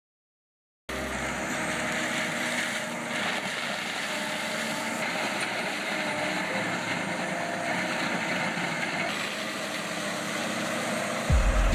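Starts about a second in: an engine runs steadily. Just before the end a deep, louder rumble sets in suddenly.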